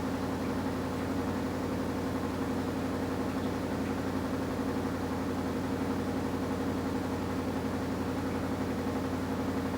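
AQUA top-loading washing machine's direct-drive inverter motor running at a steady speed, a constant mechanical hum with no starts or stops.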